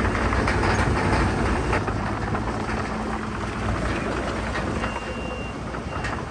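Heavy diesel earthmoving machinery running, with a steady clanking rattle like steel crawler tracks.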